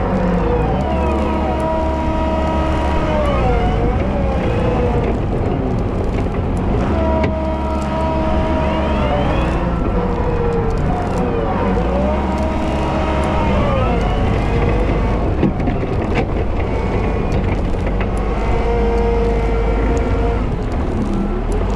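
Volvo L110 wheel loader running steadily under load, a deep engine drone with whining tones that rise and fall every few seconds.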